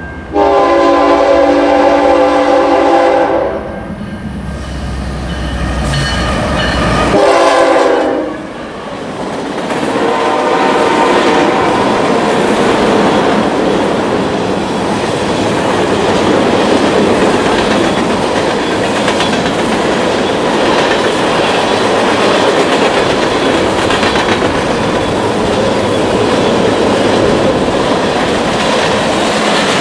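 Horn of CN's GE ES44AC diesel locomotive sounding one long blast of about three seconds, then a shorter blast a few seconds later, over the low rumble of its engine, which falls away as the locomotive passes. Then the empty crude oil tank cars roll by in a steady clatter of wheels over rail joints.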